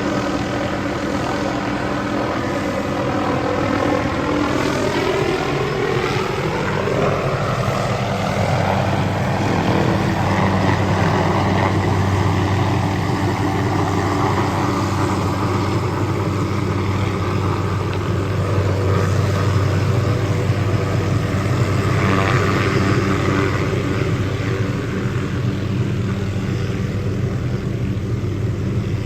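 Hughes 369D helicopter running: a steady rotor and turbine drone, with a whine that rises in pitch over the first several seconds.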